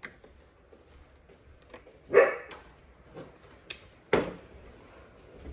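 A dog barking twice, two short barks about two seconds apart, with a few sharp clicks in between.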